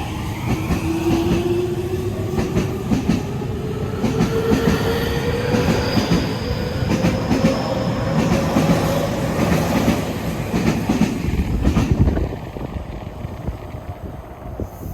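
Tokyu 5050 series 4000-subseries electric train accelerating out of the station: its motor whine rises steadily in pitch over the clatter of wheels across rail joints. The noise drops off sharply about twelve seconds in as the train clears the platform.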